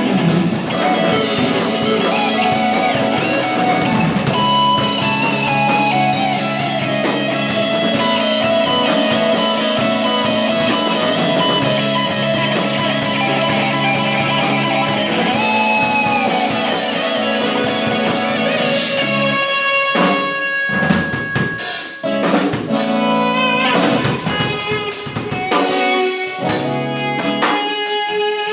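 Electric guitar played through a BOSS GT-100 multi-effects processor, lead lines with bent, sustained notes over a drum beat. In the last third the music breaks into short stabs with brief stops.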